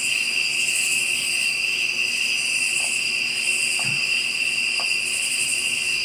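Chorus of night insects such as crickets and katydids, a steady high-pitched trilling that swells and fades, with a few faint ticks about halfway through.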